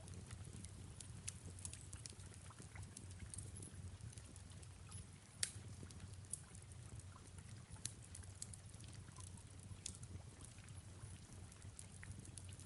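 Faint fireplace crackle over soft rain: scattered small pops over a low steady rumble, with one sharper pop about five and a half seconds in.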